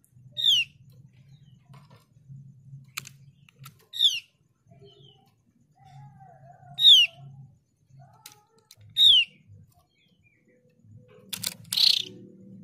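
Female Javan heleia (opior jawa) giving single sharp, downslurred call notes, four of them a few seconds apart: the female's call to a male. Faint ticks come between the calls, and there is a short scratchy burst near the end.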